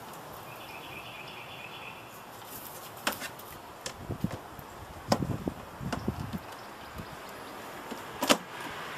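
Scattered clicks and knocks of parts being handled inside a desktop computer case, over a steady hiss, with the sharpest click near the end.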